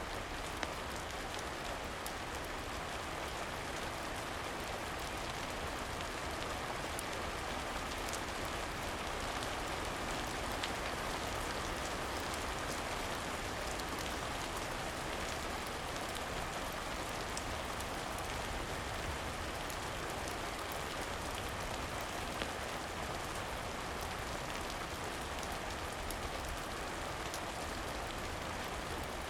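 Steady rain, with small sharp crackles from a wood fire scattered through it.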